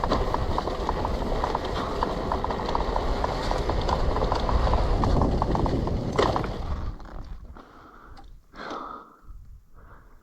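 Riding noise from a Gas Gas EC300 two-stroke enduro motorcycle: a dense rumble with rapid rattling ticks, which drops away after a sharp sound about six seconds in, leaving quiet with a few short breathy sounds.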